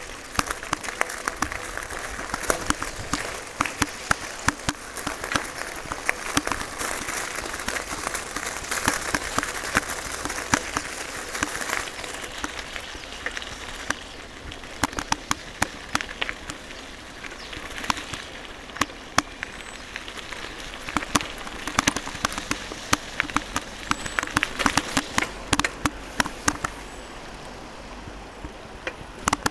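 Rain falling, with many irregular sharp drop hits close to the microphone over a steady hiss of rainfall.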